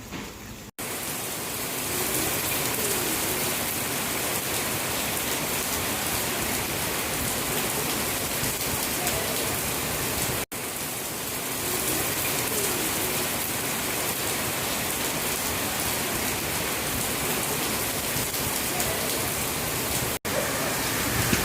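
Heavy rain falling on surfaces, a steady even hiss. It cuts out for an instant three times: about a second in, halfway through, and near the end.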